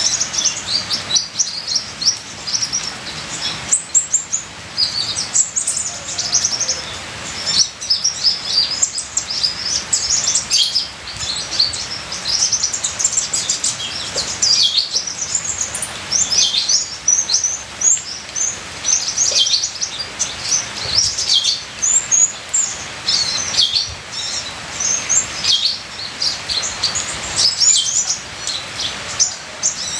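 A sunbird (the 'kolibri ninja' of Indonesian bird-keepers) singing a fast, unbroken stream of high, sharp chirps and twitters. A steady hiss of trickling rain water runs underneath.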